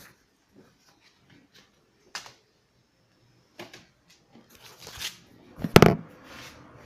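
Knocking and clattering from a neighbour's work next door: a few single sharp knocks spaced about a second and a half apart, then busier clatter and a louder double knock near the end.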